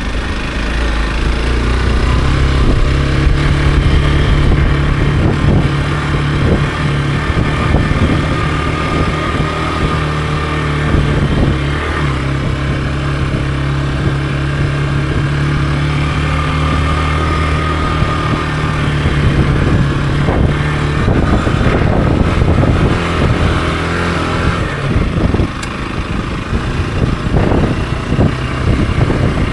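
Hero XPulse 200 4V motorcycle's single-cylinder engine running under way at steady revs. About two-thirds through, the revs drop and change unevenly for a few seconds, then settle again.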